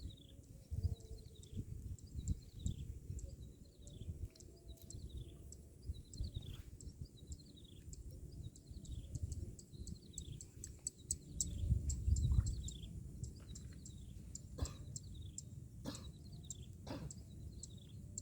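A bird calling over and over, short whistled notes that slide downward, about one a second, over a low uneven rumble.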